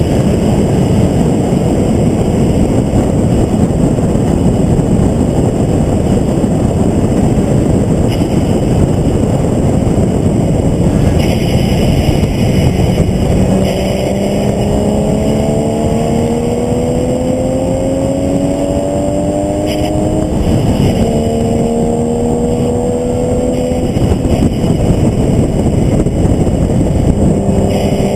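Onboard sound of a vehicle lapping a race track at speed: heavy wind and road noise. Partway through, the engine note rises steadily under acceleration, drops sharply at an upshift, then climbs again, and picks up once more near the end.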